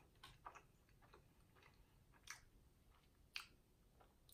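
Faint chewing of a bite of snack pie: soft mouth clicks and smacks, the two loudest about two and three and a half seconds in.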